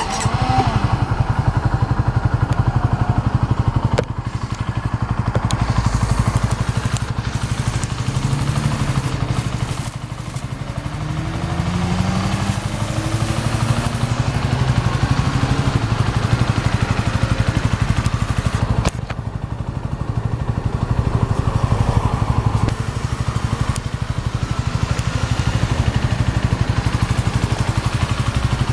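A 2018 Honda CB125R's 125 cc single-cylinder four-stroke engine, through its stock muffler, fires up right at the start and then idles steadily.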